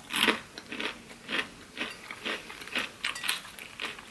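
A person chewing crunchy food close to the microphone, a steady run of about two crunchy chews a second.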